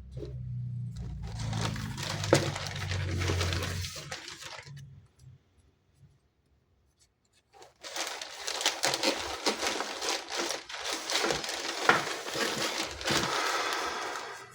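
Packaging crinkling and tearing as it is unwrapped by hand, in two stretches with a pause of about two seconds between them.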